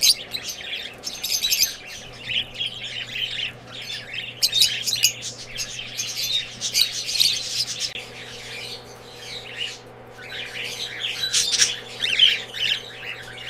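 Many cockatiels chirping and squawking together in a dense, continuous chatter, with a faint steady hum underneath.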